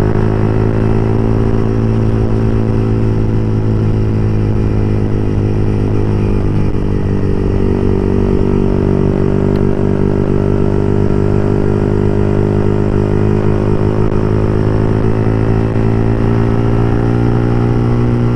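Yamaha R15 v3's single-cylinder engine running loud through an open aftermarket exhaust while riding, holding a nearly steady engine speed with a slight dip about a third of the way in.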